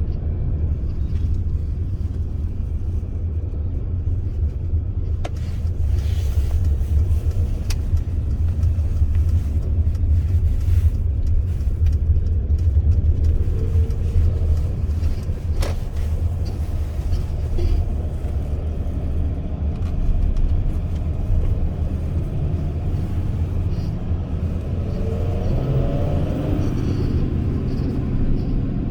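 Mercedes Sprinter van's V6 engine and road noise while driving, a steady low rumble with a few sharp clicks. Near the end a higher, shifting engine note comes in.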